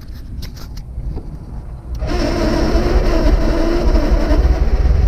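Van's starter motor cranking the engine, which catches about two seconds in and runs loudly through an open exhaust with the muffler removed.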